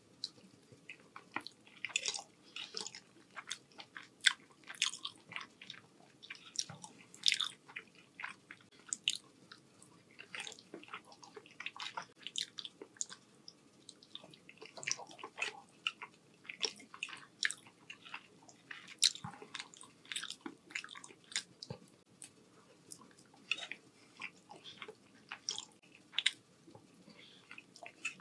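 Close-miked chewing of forkfuls of rotini pasta in meat sauce: a steady, irregular run of short, sharp mouth clicks and chewing sounds.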